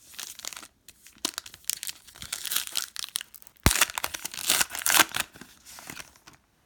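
Foil wrapper of a trading-card pack being torn open and crinkled: an irregular run of crackling rustles, with one sharp tap about three and a half seconds in.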